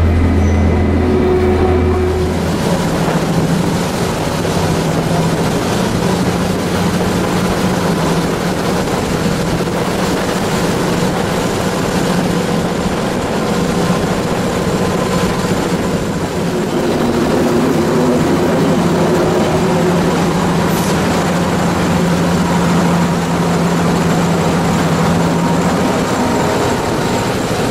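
Diesel railcar running along the track, heard from an open side window: a steady engine hum mixed with the rush of wheels on rails and passing air. The sound changes character about two seconds in.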